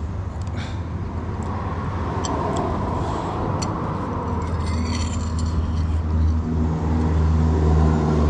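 A motor vehicle's engine running nearby, a steady low hum that grows louder over the second half, with a few light clicks.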